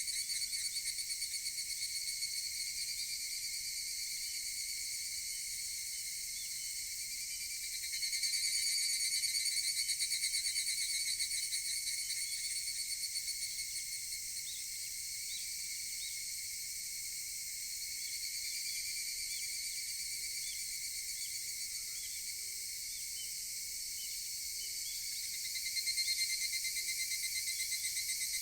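Chorus of higurashi evening cicadas trilling in overlapping waves, swelling about eight seconds in and again near the end. Faint, evenly spaced low notes sound beneath in the second half.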